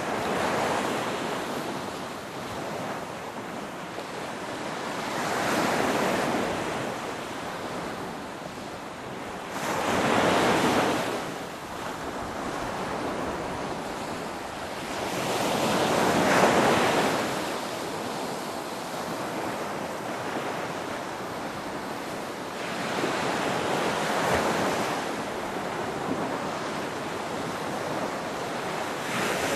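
Ocean waves breaking and washing in, swelling and receding in surges every five or six seconds, with the two largest about ten and sixteen seconds in.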